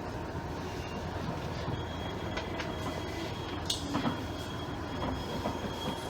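Inside a JR East KiHa 110-series diesel railcar (KiHa 112-103) drawing into its terminus: a steady low rumble under thin, high squealing tones from the wheels and brakes, with a few sharp clicks about four seconds in.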